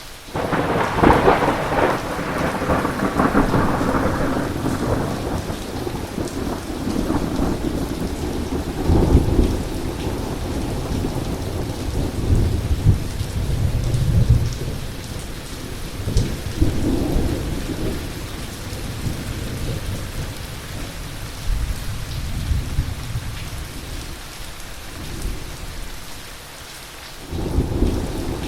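Thunder in a heavy storm: a sudden clap just after the start, then a long low rumble that rolls on in several swells and dies away, with rain falling steadily throughout. A new peal of thunder breaks in near the end.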